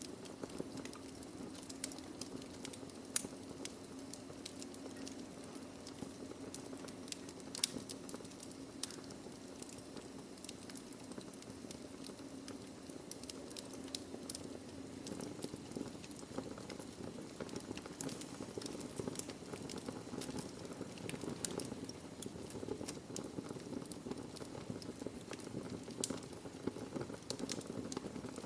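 Wood fire in a fireplace: a steady low hiss and rumble of burning logs, with irregular sharp crackles and pops scattered throughout, a couple of louder pops about three and seven and a half seconds in.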